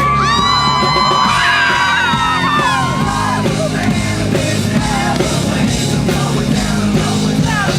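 Live rock band playing loudly, heard from within the crowd, with a long held yell over the music for about the first three seconds.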